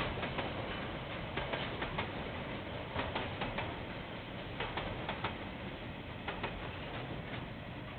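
Freight train wagons rolling past on the rails, heard through a security camera's microphone: a steady rumble with irregular clicks of wheels over the track, fading near the end as the last wagons pass.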